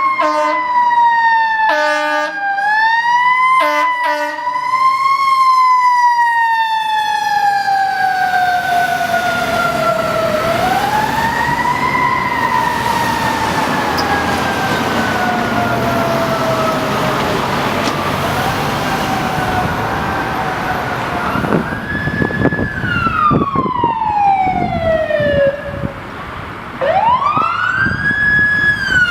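Fire engine responding with its mechanical siren, winding up and coasting down in long slow rises and falls. Short air-horn blasts come about two seconds apart near the start.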